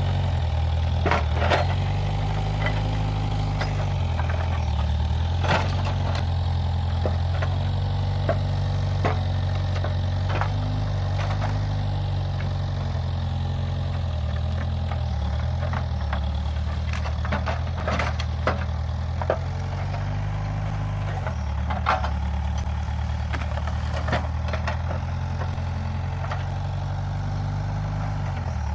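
Case 580G backhoe loader's diesel engine running steadily, its note dipping and shifting every few seconds as the machine works. Scattered sharp cracks and knocks sound throughout.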